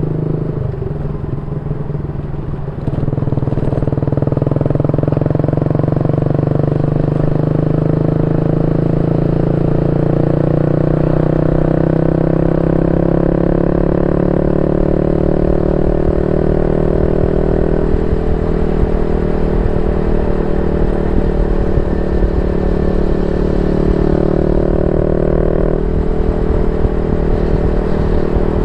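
Yamaha Y15ZR's 150cc single-cylinder four-stroke engine running through a YY Pang SD3 aftermarket exhaust. It gets louder about three seconds in, and its note climbs slowly for a long stretch, then jumps in pitch a few times later on.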